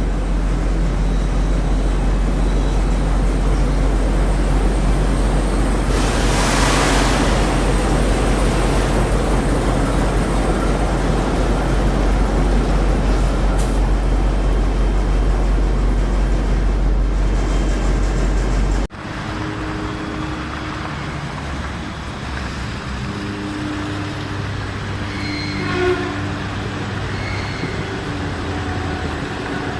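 Train noise: a steady low hum with the rush of a running train, swelling for a couple of seconds early on. About two-thirds of the way in it cuts abruptly to a quieter train scene with steady motor-like tones and a brief louder moment near the end.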